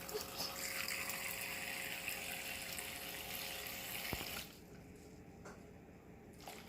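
Toy electric dishwasher's small water pump running, with a faint steady whine under a spray of water, then cutting off about four and a half seconds in.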